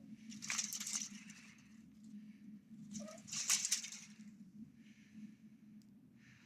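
Two bursts of scratchy rustling, about half a second in and again around three and a half seconds in, over a low steady hum.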